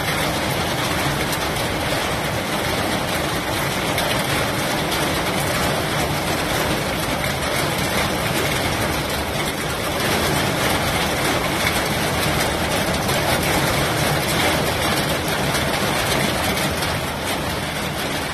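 Heavy rain pouring down steadily in a thunderstorm downpour, a dense even hiss with no thunderclap.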